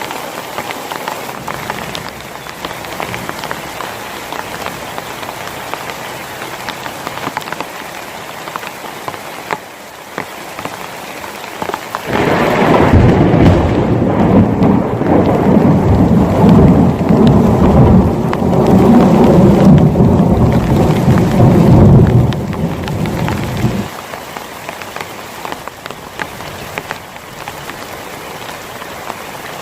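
Heavy rain falling steadily, with a long, loud thunder rumble that starts suddenly about twelve seconds in and stops abruptly about twelve seconds later.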